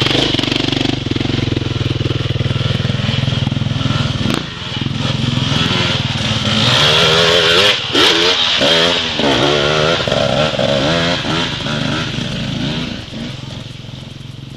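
Dirt bike engine running close by at low speed. From about six seconds in, its revs rise and fall over and over, with a couple of sharp knocks, and it fades away near the end.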